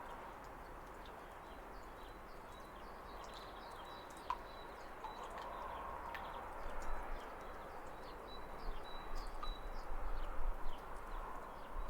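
Waterfall's steady rush of water, with birds chirping in many short, high calls. The water sound grows louder and more uneven in the second half.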